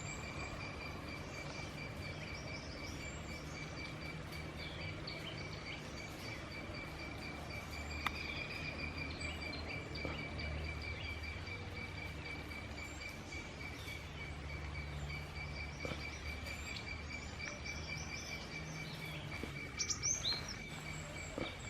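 An insect's continuous, even-pitched trill runs throughout, with scattered short bird chirps over it and a brief cluster of louder chirps near the end, over a low steady background rumble.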